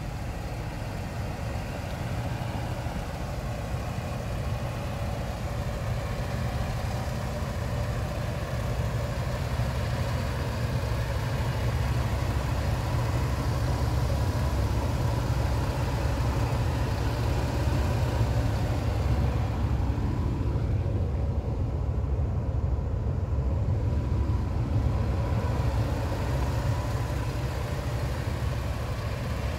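1973 Cadillac de Ville's 472 cubic-inch V8 idling steadily, a low, even rumble that grows slightly louder over the first ten seconds or so.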